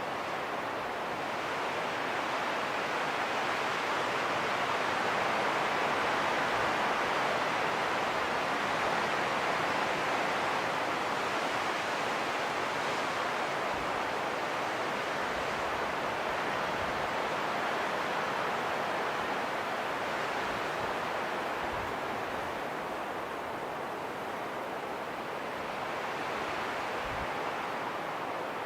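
Steady rushing wind that swells slowly over several seconds and then eases off again.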